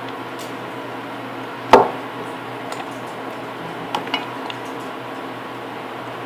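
One sharp tap about two seconds in and two lighter clicks around four seconds: small craft tools and a plastic cutter knocking on a work table while small hearts are cut from cold porcelain clay.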